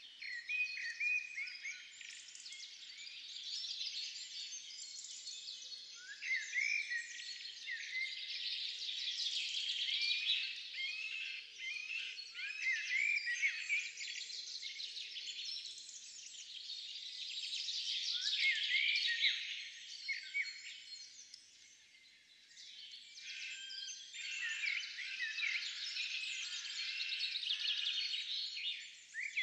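Several songbirds singing at once, a dense chorus of high chirps and trills that thins out briefly about three quarters of the way through.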